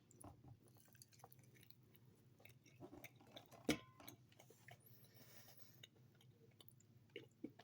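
Faint chewing of a sea salt chicken wing: scattered soft clicks and mouth sounds, with a slightly louder click about four seconds in and two more near the end.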